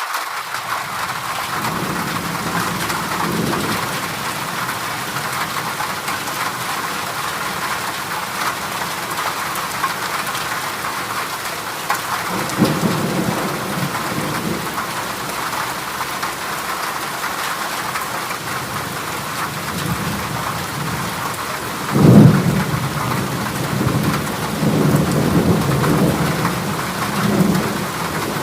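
Heavy rain drumming steadily on a corrugated zinc sheet roof. Low thunder rumbles underneath, with a sudden louder crack about three-quarters of the way through and more rolling thunder near the end.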